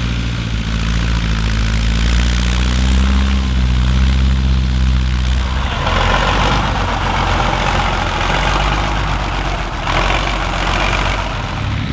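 Large farm-machinery diesel engines running, in separate clips: a steady low engine note for the first six seconds, then an abrupt change to a harsher, noisier machine sound, which changes again near the end.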